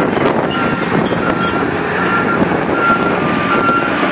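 Komatsu PC200LC-5L excavator's diesel engine running as the machine travels on its tracks, with its travel alarm giving a short high beep about every three-quarters of a second.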